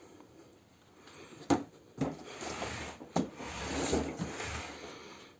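Plastic car fridge being handled: three sharp knocks and clicks of its plastic body or lid, with rustling between them.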